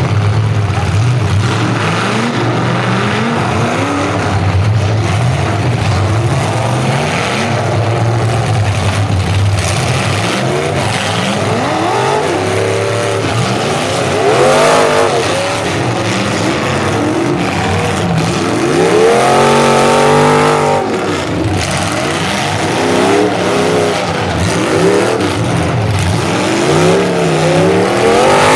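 Several full-size demolition derby cars' engines running together, revving up and down over and over as they accelerate and back off, with the strongest rev about two-thirds of the way through.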